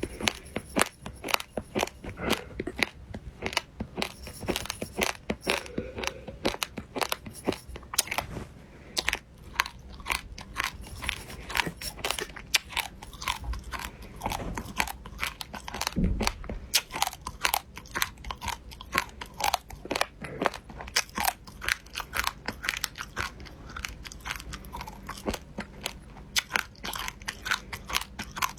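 Crisp food being bitten and chewed close to the microphone, a fast run of crunches continuing throughout.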